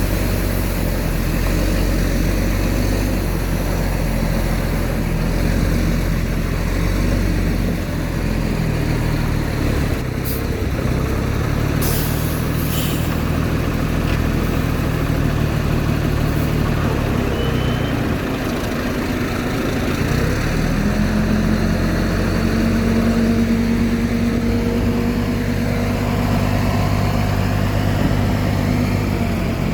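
Heavy diesel earthmoving machinery running, its engine note shifting as it works, with short hisses about ten to thirteen seconds in. Near the end the engine speeds up to a higher, steady note.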